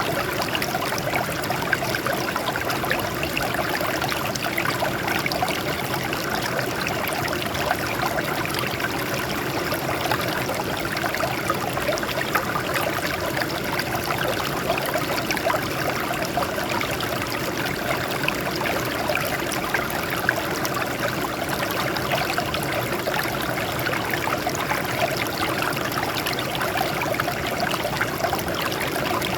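Water flowing and splashing over rocks in a small stream or cascade, a steady even rush with fine trickling and bubbling detail.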